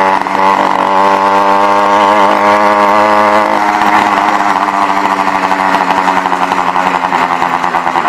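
Motorized bicycle's small two-stroke kit engine running, its pitch wavering up and down with the throttle for the first few seconds, then settling into a rapid, even putter. It is being tried out after the carburetor needle clip was lowered a notch.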